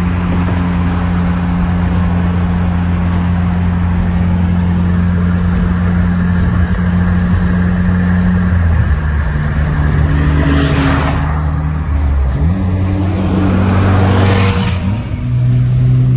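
Muffler-deleted 2.8 V6 of a Saab 9-3 Aero running at a steady engine speed, its pitch stepping down about halfway through and jumping back up a few seconds later. Two short rushing swells of noise near the end.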